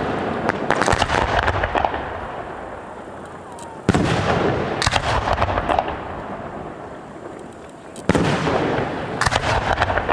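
Aerial firework shells bursting with loud booms, about every four seconds, each followed by a long rolling echo and a rapid spray of crackling pops.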